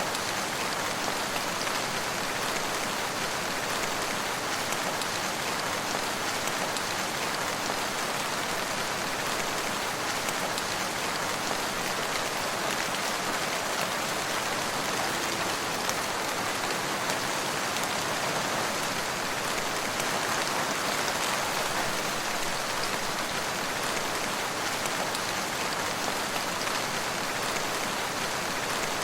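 Steady rain falling, an even hiss with countless small drop impacts, unchanging throughout.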